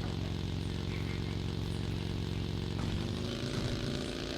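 An engine running steadily, its pitch shifting briefly about three seconds in.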